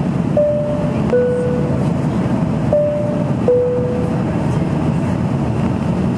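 Two-tone cabin chime inside an Embraer ERJ-140 airliner, sounding twice: each time a higher note followed by a lower, longer one. Underneath is the steady rumble of engine and air noise in the cabin.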